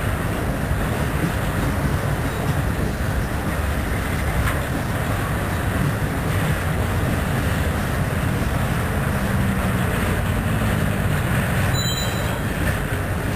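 Freight train of empty centerbeam flatcars rolling past, a steady rumble and rattle of wheels on the rails.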